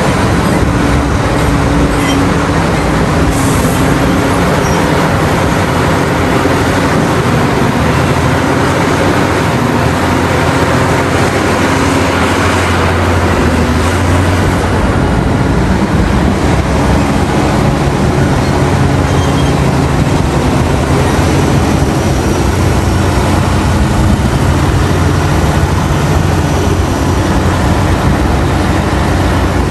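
Heavy mining equipment at work: a large diesel engine running steadily under load, its note shifting slightly up and down.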